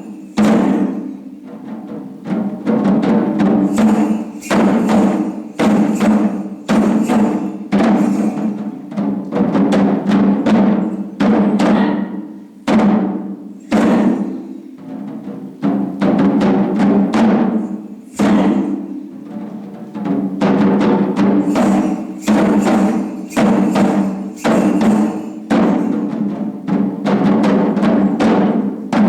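Japanese taiko drums struck in a continuous rhythm of heavy strokes, roughly one to two a second, each ringing out deep and full before the next.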